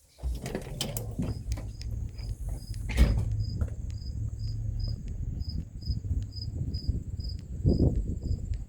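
Insect chirping: a short high chirp repeating about three times a second, over a low steady rumble. A sharp knock comes about three seconds in.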